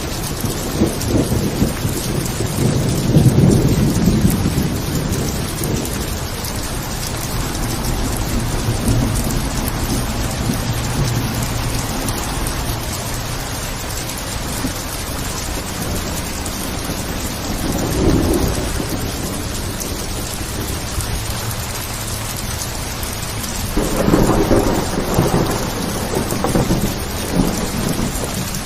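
Steady heavy rain with low rumbles of thunder that swell up about three seconds in, again about eighteen seconds in, and once more near the end.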